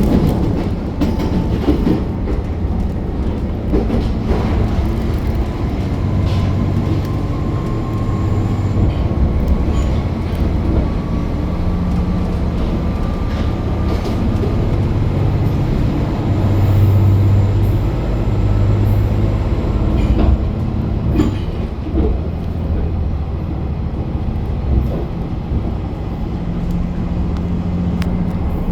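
KiHa 261 series diesel limited express train running at speed: a steady low hum and rumble of engine and wheels, with a faint tone slowly rising in pitch through the first half and a few sharp clicks from the rails.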